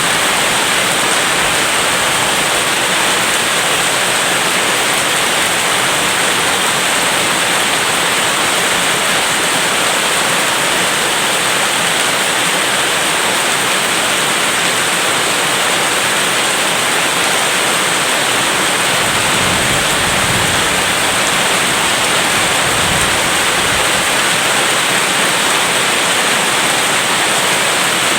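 Heavy rain falling in a steady, dense hiss, with a faint low rumble of distant thunder about two-thirds of the way through.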